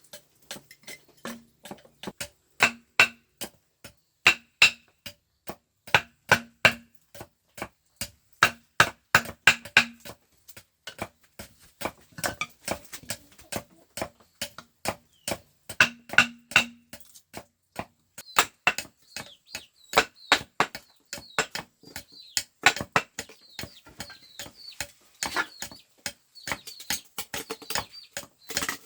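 Tool strikes on bamboo, hand-working the poles: sharp knocks coming a few a second in uneven runs, some leaving a short hollow ring.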